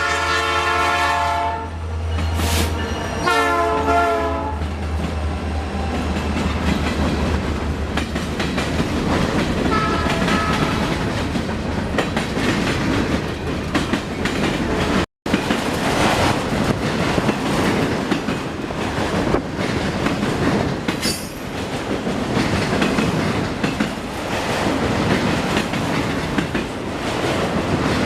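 Train passing close by. Its locomotive horn sounds a long blast that ends about a second and a half in, then a shorter blast a couple of seconds later, over a low engine drone. In the second half the rail cars rumble and clack steadily over the track.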